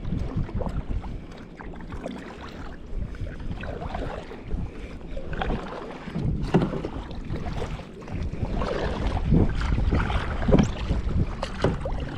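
Canoe paddle strokes dipping and pulling through the water, a stroke every second or two, stronger in the second half. Wind rumbles on the microphone underneath.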